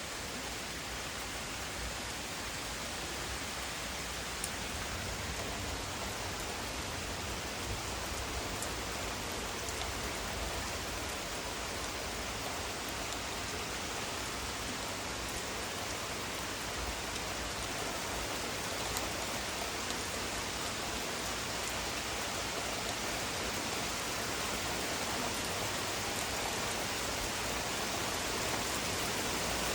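Steady rain falling in a thunderstorm, an even hiss that grows slightly louder toward the end.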